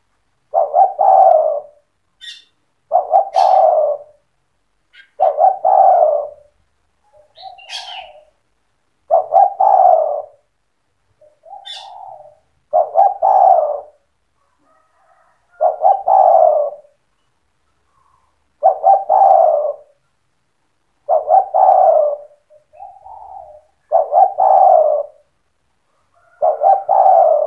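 Spotted dove (tekukur) cooing, repeating one phrase about every three seconds, each phrase opening with a few quick stuttered notes before the main coo. Softer short coos fall in some of the gaps, and there are a few faint high chirps.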